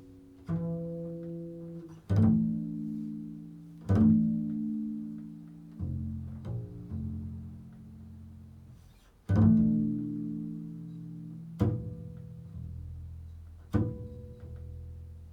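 Improvised slow music on a deep-voiced plucked string instrument: single low notes struck every two seconds or so, each left to ring and fade before the next.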